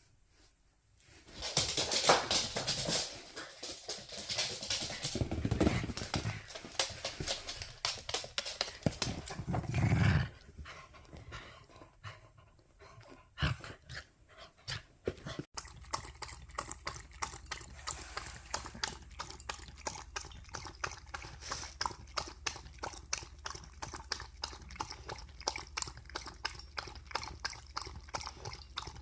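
Loud scuffling and thuds from a Welsh corgi for the first ten seconds. Then, from about halfway, the corgi laps water in quick, even laps.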